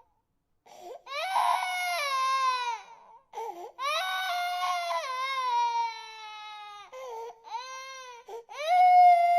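Infant crying: a string of long wails, each starting high and falling in pitch, broken by short gasping breaths. The loudest wail begins near the end.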